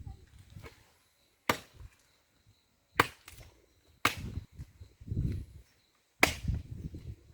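Wood being chopped by hand with a blade: four sharp blows at uneven intervals of one to two seconds, each followed by duller knocking and rustling of the wood.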